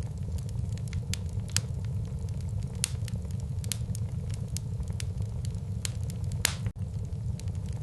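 Wood fire burning in a fireplace: irregular sharp crackles and pops over a steady low rumble of the flames, with one louder pop about six and a half seconds in.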